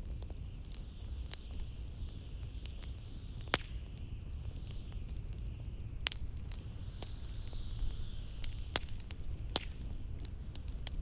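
Wood fire crackling, with sharp pops scattered irregularly, over a steady low wind rumble and a higher whistling howl of blizzard wind that rises and falls.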